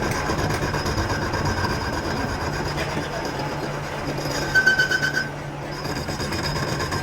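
Workshop machinery running steadily with a constant hum, and a brief high-pitched squeal about four and a half seconds in.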